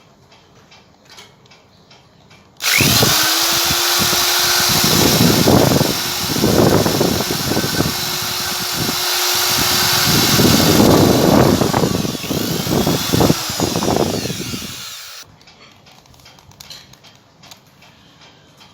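A power drill starts about three seconds in and runs for about twelve seconds, grinding against the compass being cleaned, with a steady motor whine under uneven scraping. It stops a few seconds before the end, leaving faint ticking.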